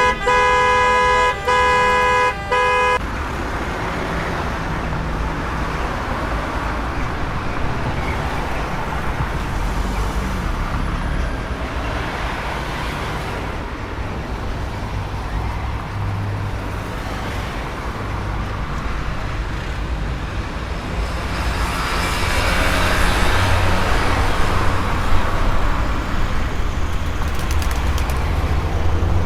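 Car horn honking in a few short blasts, followed by steady road traffic: engine rumble and tyre noise, swelling louder about three-quarters of the way through as vehicles pass close.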